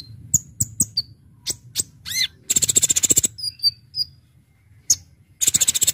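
A Kolibri Ninja (Konin) sunbird singing: sharp, very high chips, a short falling whistle, and two fast, dense trills, one near the middle and one near the end.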